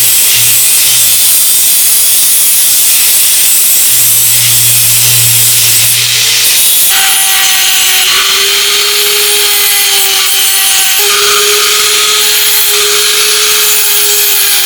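Power tool abrading a part: a steady, loud hiss of abrasion, with a motor's steady whine joining about seven seconds in.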